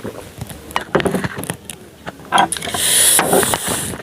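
Scattered clicks and knocks of things being handled, then a louder crinkling rustle lasting about a second near the end, typical of snack packaging being handled.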